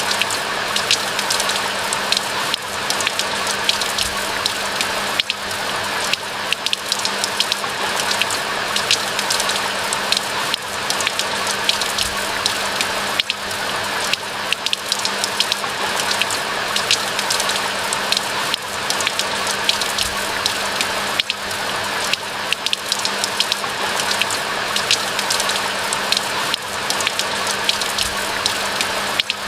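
Steady rain falling, with many close individual drop hits crackling over an even hiss of rainfall. A faint steady low hum runs underneath.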